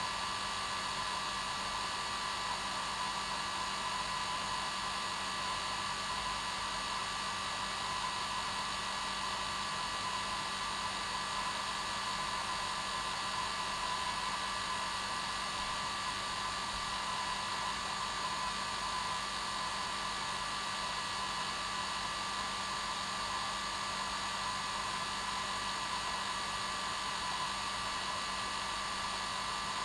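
Hair dryer running steadily: an even rushing hiss of air with a constant motor whine.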